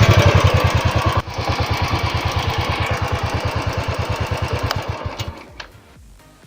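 Royal Enfield Classic 350 BS4's single-cylinder engine running through its stock silencer, with an even, low thump-thump exhaust beat. The sound is muffled, which the owner puts down to the filters added inside the BS4 silencer and bend pipe. The beat steps down in loudness about a second in, then fades and stops about five and a half seconds in.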